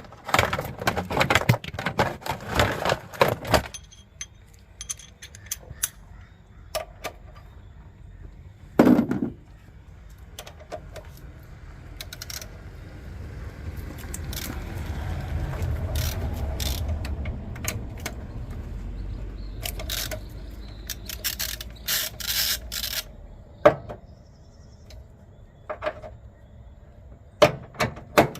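Metal clanking and rattling as a jack is moved and set under the engine of a car, with a dense clatter at the start, a sharp knock, and scattered clicks and knocks later. A low rumble swells and fades in the middle.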